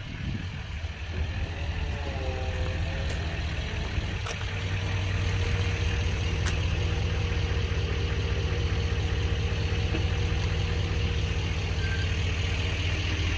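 A motor vehicle's engine idling with a steady low hum, growing louder about five seconds in, with a few faint ticks over it.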